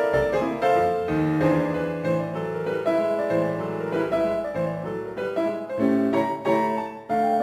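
Solo piano music, a lively piece with notes changing several times a second.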